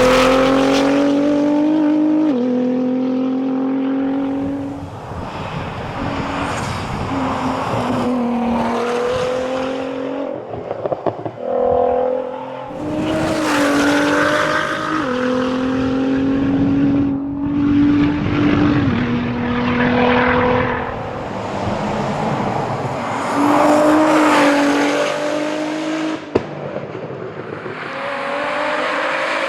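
Nissan R35 GT-R's twin-turbo V6 driven hard on a tarmac rally stage. It revs up through the gears, its pitch climbing and then dropping sharply at each quick shift, with lifts and renewed acceleration between corners.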